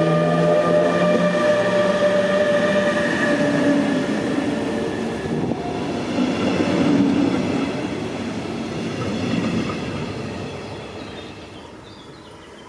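Train passing close by: a steady whine of several tones over the rumble of rolling wheels, the whine dying away about halfway through and the rumble fading out over the last few seconds.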